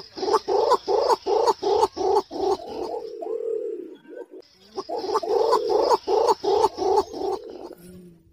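Green imperial pigeon calling: two series of deep, rhythmic cooing notes, about three a second, each series ending in a longer drawn-out note, with a short pause between the two series.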